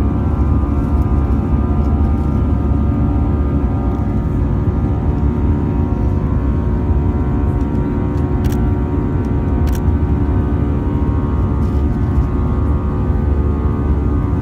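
Steady cabin drone of an Airbus A320-214 heard from a window seat: a deep rumble of engine and airflow noise with a steady hum of engine tones above it. Two faint clicks come a little past the middle.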